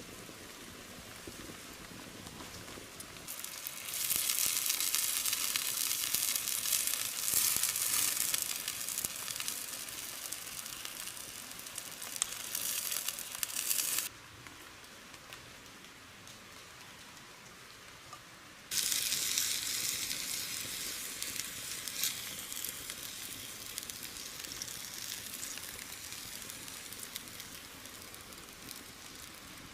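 Food sizzling and crackling in hot oil in a pan, over a steady patter of rain. The sizzle starts up about four seconds in, cuts out suddenly around the middle and cuts back in a few seconds later, then slowly dies down.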